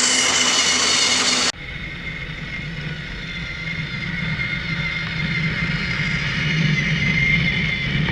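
Battery-powered toy train engine running: a steady high motor-and-gear whine, which cuts off abruptly about a second and a half in to a quieter, low rumble of the train running along its track that slowly grows louder.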